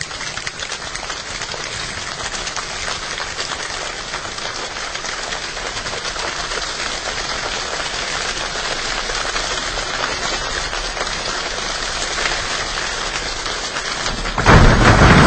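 A group of people imitating a rainstorm with their hands: a dense patter of many small clicks and taps, swelling gradually like rain setting in. Near the end it jumps suddenly much louder, like a downpour breaking.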